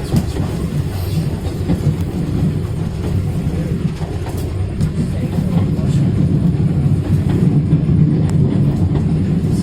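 Train running on the Dartmouth Steam Railway line: a steady low rumble with faint wheel clicks, growing a little louder about halfway through.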